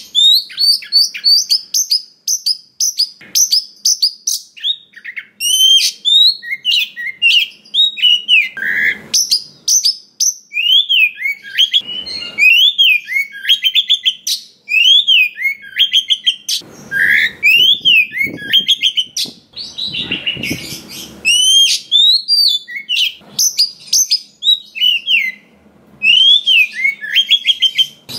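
Oriental magpie-robin (kacer) singing a long, varied song of rapid whistled and chirping phrases, with many repeated rising-and-falling notes. It is broken now and then by short, rough, noisy passages.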